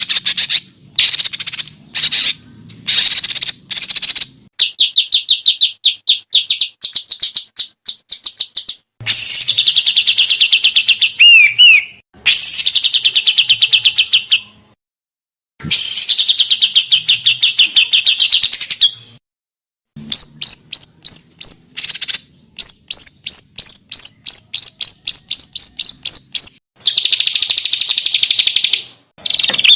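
Recorded songbird song for bird training (masteran): sharp chirps, long fast trills and quick runs of repeated notes. The phrases start and stop abruptly, with short silent gaps between them, as in an edited recording.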